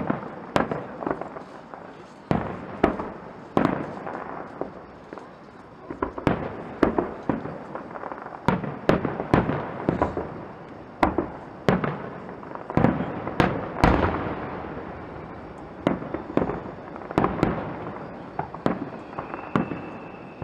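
Aerial fireworks exploding in a rapid, irregular series of sharp bangs, each followed by a rolling echo, with crackling in between.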